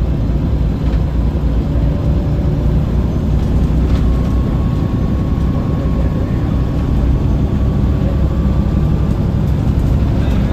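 Scania L94UB bus's diesel engine running steadily under way, with road noise. A faint thin whine sounds from about four seconds in to about nine seconds in.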